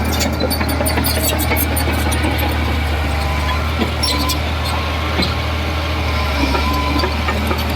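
Heavy diesel construction machine engine running steadily with a deep, even drone, with scattered metallic clicks and clanks over it.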